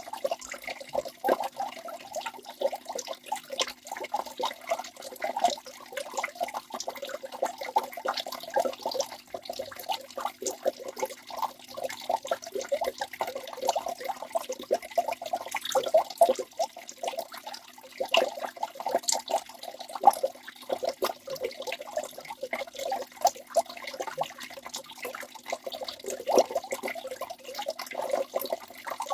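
Waterfall: water falling and splashing without pause, a dense run of small splashes with little deep rumble.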